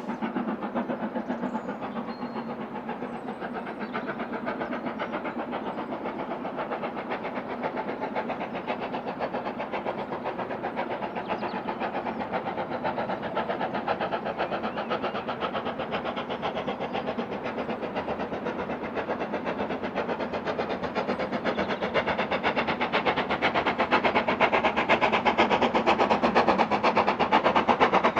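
Steam locomotive working hard, its exhaust giving a rapid, even stream of beats that grows steadily louder.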